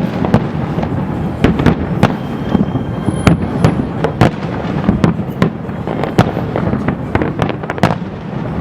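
Fireworks display heard from across a harbour: a continuous rumble of shell bursts with many sharp bangs and crackles at irregular intervals.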